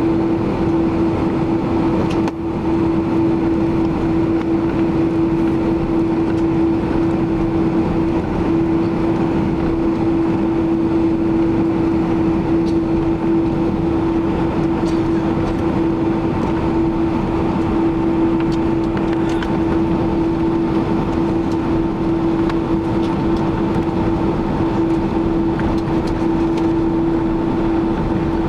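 Cabin sound of a Boeing 767-300ER's General Electric CF6 turbofan engines running steadily, heard from a seat by the left wing: an even rush of noise with a steady humming tone. A brief click about two seconds in.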